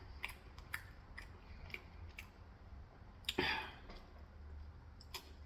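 Close-miked chewing of food, with small sharp wet mouth clicks about every half second and one louder mouth noise about three and a half seconds in.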